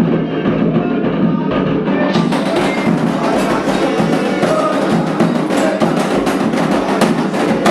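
Candomblé ritual music: hand drums played with a clacking, wood-block-like timekeeper and voices singing over them. About two seconds in the sound turns brighter, with sharper strikes.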